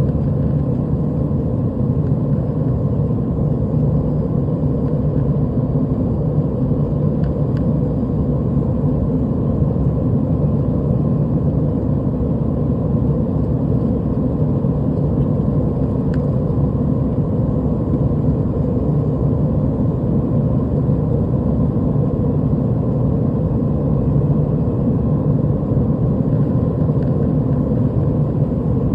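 Steady cabin noise of an Airbus A320 airliner in flight, its engines and rushing air heard from inside the cabin as an even low noise, with a faint steady tone higher up.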